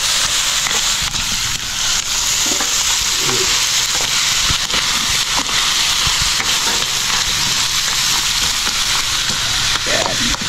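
Small whole crabs sizzling steadily in a hot aluminium wok as a plastic spatula stirs them, with scattered clicks and scrapes of shells against the pan.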